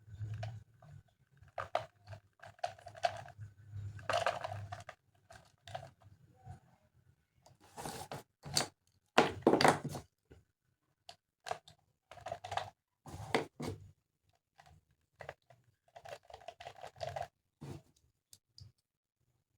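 Plastic toy train parts being handled and assembled: irregular clicks, knocks and crackly rustles in scattered clusters, with a faint low hum during the first few seconds.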